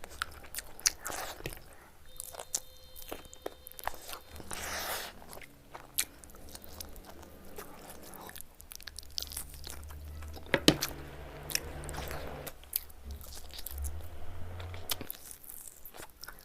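Close-miked eating: a person biting and chewing food, with crunchy bites and sharp mouth clicks at irregular intervals, the loudest snap about ten and a half seconds in.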